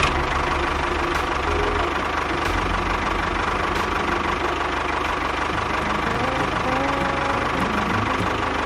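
Small engine running steadily at idle, with a fast, even low pulsing and a steady whine over it.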